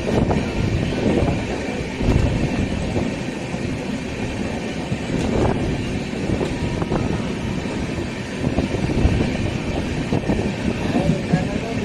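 A passenger train rolling along the station tracks: a steady rumble from the coaches with occasional knocks from the wheels.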